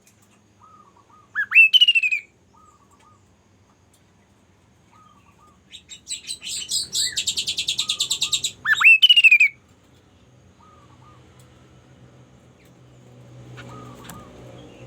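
A bird singing: soft short notes repeated every second or two, broken by a loud whistle that sweeps up and falls back. Then comes a fast rattling trill that ends in another swept whistle.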